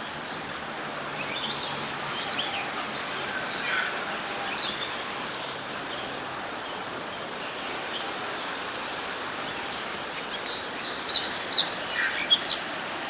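Several birds chirping and calling in a walk-through aviary: scattered short, high chirps, with a quick run of louder, sharp chirps near the end, over a steady background hiss.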